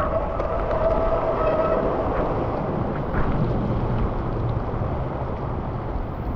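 Steady rushing noise of wind and rain on the microphone while cycling through a thunderstorm, with low rumble underneath. A steady pitched tone fades out in the first couple of seconds.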